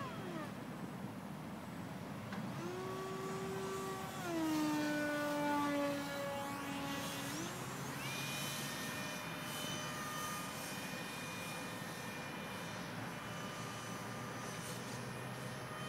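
Electric ducted fan of an RC model jet whining, its pitch sliding up and down with the throttle: it drops at the start, rises about 2.5 s in, steps down around 4 s, then climbs sharply around 7.5 s and holds a higher steady whine.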